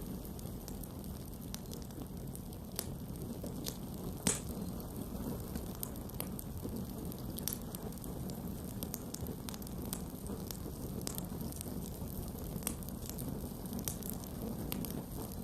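Campfire burning: a steady low hiss of flames with irregular wood crackles and pops throughout, one sharper pop about four seconds in.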